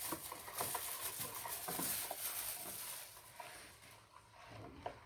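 Trisodium phosphate being added to the homemade dishwash liquid mix: a rustling hiss with light taps for about three seconds, dying down after.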